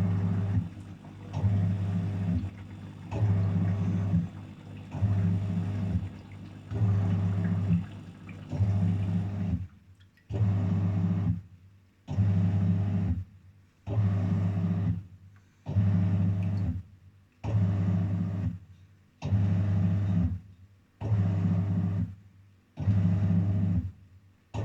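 Daewoo DWF-806 WPS washing machine running its wash cycle: the drum motor hums in short pulses about once every 1.8 seconds as it turns the drum back and forth through the wash, with a faint swish of water.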